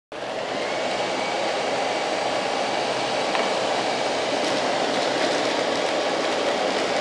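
Robot vacuum cleaner running: a steady, even whirring noise from its suction fan and brushes that cuts in abruptly at the start.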